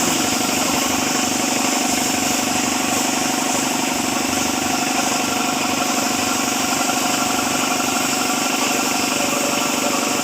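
Car engine idling steadily, with an even, unchanging note.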